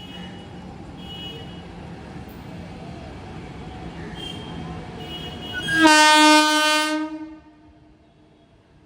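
Indian Railways locomotive horn sounding one loud blast of just over a second, about six seconds in, over the steady running noise of a train.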